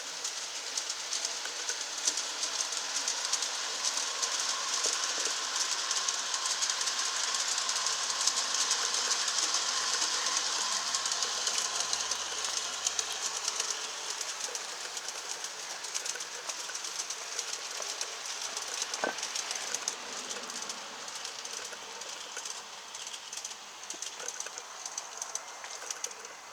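G scale model train running on the track, its wheels clicking steadily over the rails. It grows louder to a peak about a third of the way in and then slowly fades.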